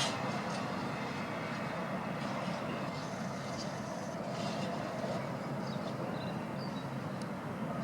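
A train rolling through the station: a steady rumble of wheels on rails, with a few faint high squeaks.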